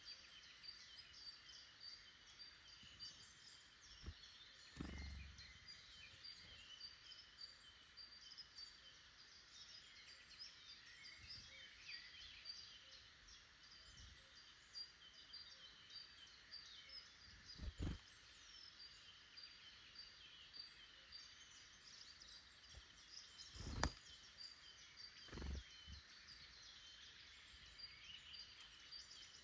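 Faint chorus of small woodland birds chirping and singing, many short calls overlapping. A few dull low thumps break in now and then, the loudest near the end.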